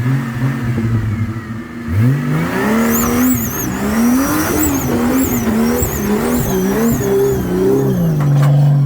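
A 4WD's engine revving hard under load, its pitch climbing about two seconds in and then rising and falling again and again as the driver works the throttle, with a thin high wavering squeal over it.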